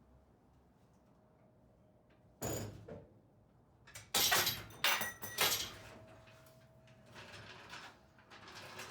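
Metal clunks and scraping as a jack is let down and the engine shifts loose during an engine pull: one clunk about two and a half seconds in, three louder ones around four to five and a half seconds in, then a softer rasping near the end.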